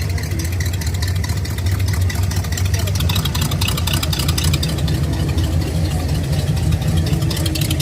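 Car engine idling loudly and steadily, with a fast, even exhaust pulse.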